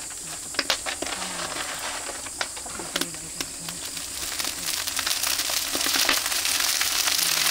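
Oak firewood fire crackling with sharp, scattered pops. The crackle thickens into a dense, louder hiss about halfway through.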